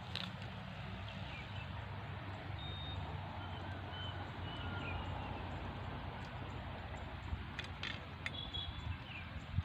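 Outdoor background noise with a steady low hum, a few faint short chirps and a handful of sharp clicks near the end.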